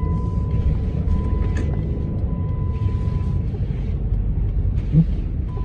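Inside the cabin of a 2009 Jeep Commander on the move in snow: a steady low rumble from the 5.7 Hemi V8 and the tyres, with a thin steady high tone that comes and goes.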